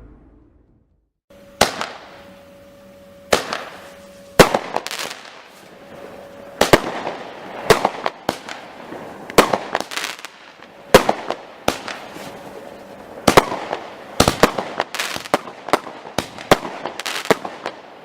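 Fireworks going off: a run of sharp bangs at irregular spacing, about two dozen in all, starting after a second or so of quiet, with crackling between the reports.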